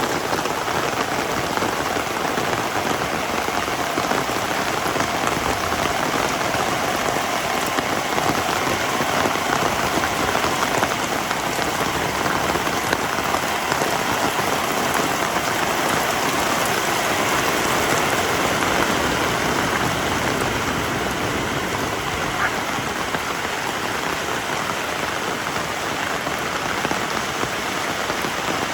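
Heavy rain falling steadily: a dense, even patter of countless drops with no let-up.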